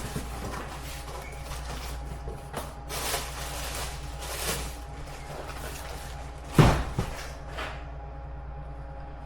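Scattered knocks and clatters of kitchen handling over a steady machine hum, with the loudest pair of knocks about two-thirds of the way through.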